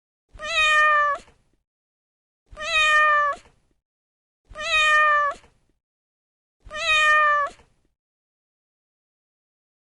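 A cat meowing four times, one long meow about every two seconds, each call the same, steady in pitch and turning up at its end.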